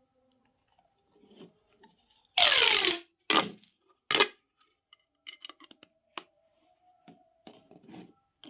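Plastic pop tube fidget toy being stretched and squeezed: a loud crinkling rasp with a falling tone a little over two seconds in, two shorter rasps after it, then scattered small clicks and crackles.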